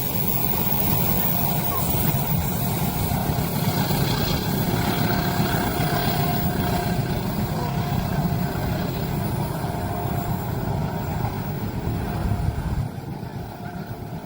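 Train passing through a level crossing: a steady, loud rumble of wheels on the rails that drops away suddenly near the end as the train clears.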